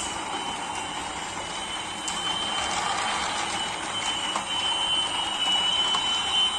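Motorised toy trains running on their track: a steady, thin motor whine over a continuous rattle of wheels and track, growing a little louder in the second half.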